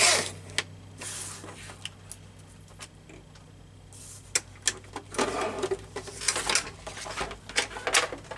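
Paper being handled and trimmed on a work table: scattered clicks and taps, with a brief rustle at the start and a longer burst of rustling about five seconds in, over a steady low hum.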